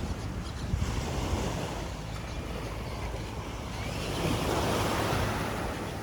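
Surf breaking and washing up the beach, one wave swelling louder about four seconds in, with wind buffeting the microphone.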